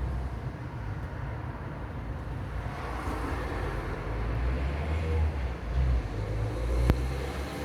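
A car approaching on the road, its tyre and engine noise growing louder through the second half, over a low rumble. A single sharp click near the end.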